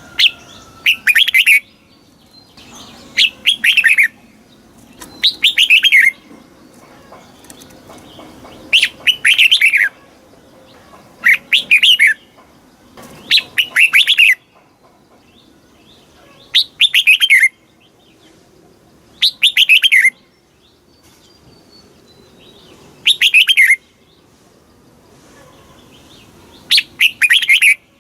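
Red-whiskered bulbul singing: about ten short, loud, fluty phrases, each under a second, repeated every two to four seconds.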